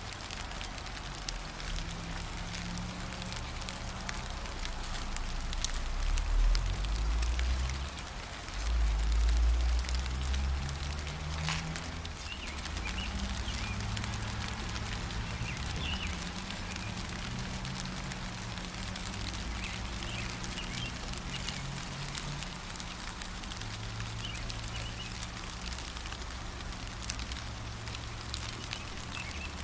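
Steady gentle rain pattering, with faint bird chirps through the middle. A low rumble runs underneath and swells louder about six to ten seconds in.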